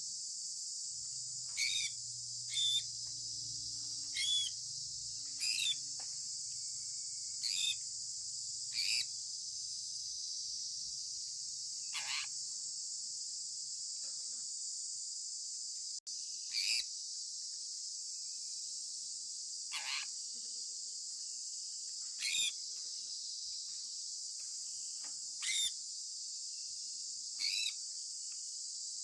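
Sun conure giving about a dozen short chirps, each falling sharply in pitch, spaced one to three seconds apart over a steady high hiss.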